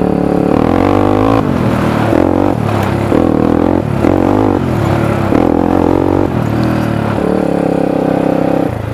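Honda 300EX ATV's single-cylinder four-stroke engine through an FMF full exhaust, running under way with the revs rising and falling in short steps.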